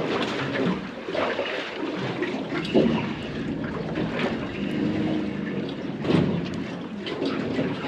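Steady noise of a boat on open water, with water and wind.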